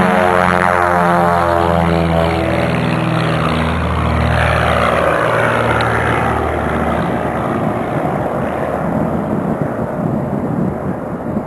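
Propeller airplane taking off at full power: a strong, steady engine-and-propeller drone for the first several seconds that gives way to a rushing rumble as the level slowly drops.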